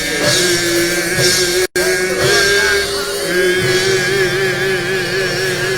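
Live gospel church band playing out the end of a worship song: a long held, wavering note over sustained bass and keyboard chords. The sound cuts out for a split second near the start.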